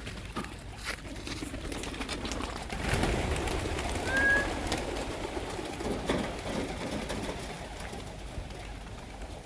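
Domestic pigeons cooing in a low continuous murmur, with light scattered clicks and one short high chirp about four seconds in.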